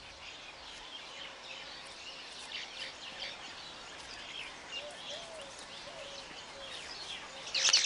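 Weaver birds chirping: many short, scattered chirps over a faint steady hiss, with a louder burst of chirping just before the end.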